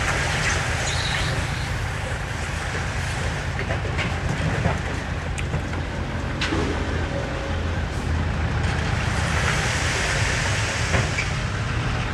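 Diesel engine of heavy earthmoving equipment running steadily under load, with scattered metallic clanks and clicks over the rumble.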